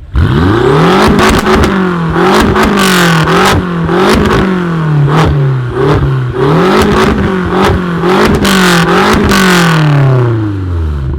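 A tuned car's engine revved hard in repeated blips, the pitch rising and falling about seven times, with sharp pops and cracks from the exhaust throughout. The revs fall away near the end.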